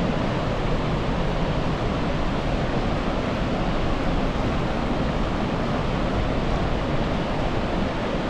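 Gullfoss waterfall, the Hvítá river plunging into its canyon: a steady, unbroken rush of falling water.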